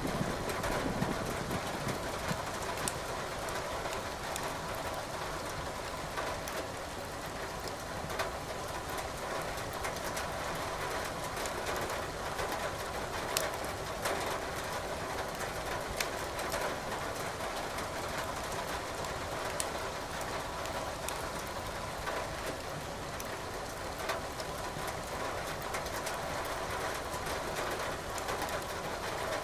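Burning firewood crackling in a fireplace, with scattered sharp pops, over a steady hiss of rain.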